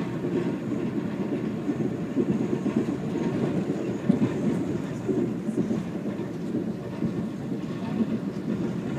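Steady low rumble of an Amtrak passenger train running along the track, heard from inside the passenger car.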